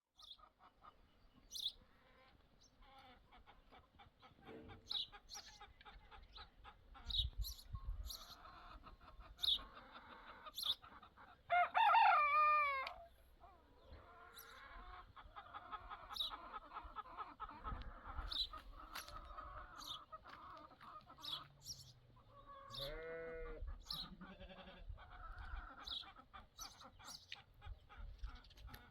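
Chickens: a rooster crows once, the loudest sound, about twelve seconds in, over clucking and many short high chirps, with a second, shorter call a little past twenty seconds in.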